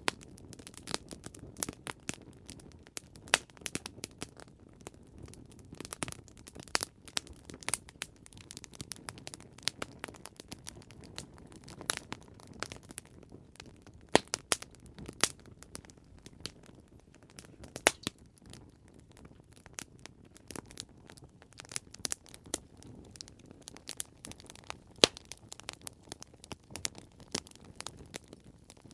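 Campfire burning with irregular, sharp crackles and pops over a low, steady rumble of flames.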